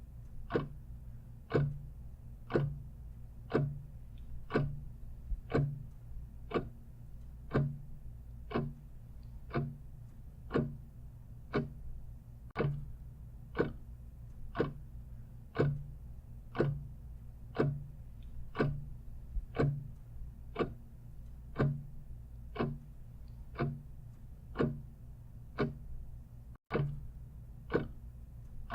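Clock ticking steadily at about one tick a second over a low, steady hum. Near the end the sound cuts out for an instant.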